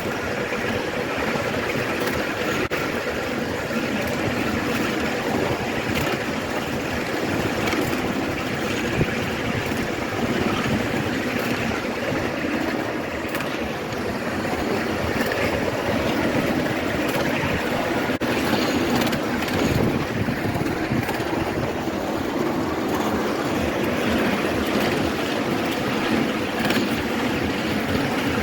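Miniature ride-on railway train running along its track: a steady rumbling run of wheels on rail with scattered sharp clicks.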